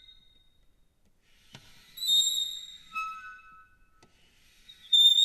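Metal door hinge squeaking, with echo added. A faint click is followed about two seconds in by a high squeal that drops to a lower tone, and a second click and squeal start near the end.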